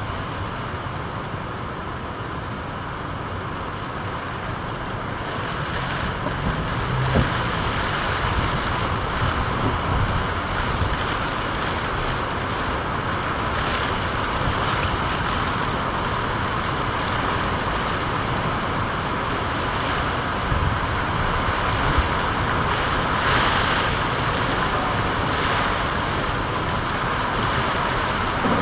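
Steady rain falling, an even hiss that grows a little louder about six seconds in, with a couple of faint low knocks.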